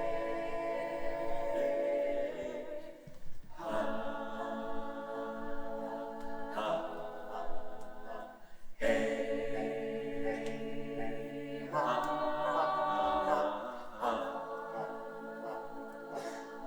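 Choir singing unaccompanied in sustained held chords, phrase after phrase with short breaks between them.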